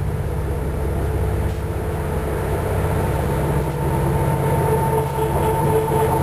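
Diesel locomotive of an approaching CN train, a low engine rumble slowly growing louder as it comes on at low speed. A steady higher tone comes in about halfway and strengthens.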